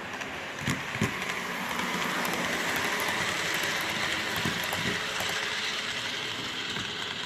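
Model train running on the layout track: a steady rushing of wheels and mechanism on the rails, with a couple of sharp clicks early on and low knocks later. The sound cuts off abruptly near the end.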